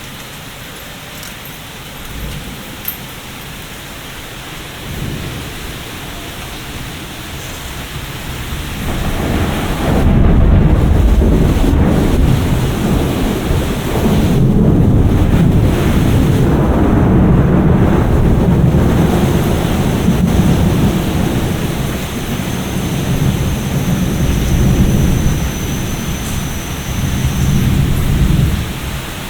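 Steady rain with a long roll of thunder that builds from about eight seconds in, rumbles loudly for most of the rest, and eases near the end.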